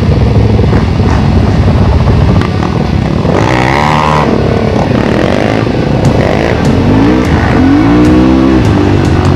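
Enduro motorcycle engine revving hard, its pitch climbing and dropping several times as it accelerates and eases off.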